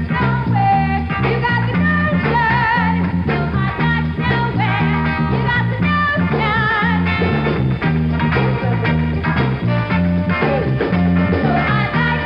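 Band music: an upbeat instrumental introduction with a steady beat and a repeating, bouncing bass line.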